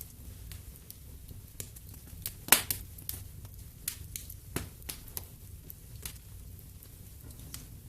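Wood fire in a fireplace crackling, with irregular sharp pops and snaps, the loudest about two and a half seconds in, over a low steady rumble.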